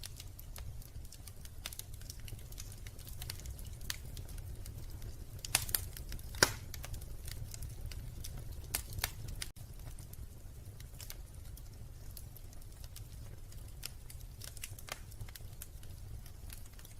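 Wood fire crackling, with scattered small snaps and a few louder pops about six seconds in and again near nine seconds, over a low steady rumble.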